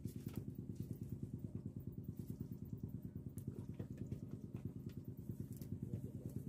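A small engine running steadily, low-pitched with a fast, even pulse. A few faint light clicks are heard over it.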